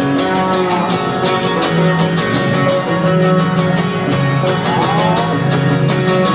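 Live country band playing an instrumental passage with no singing: guitars over a steady beat, with a few bending notes about five seconds in.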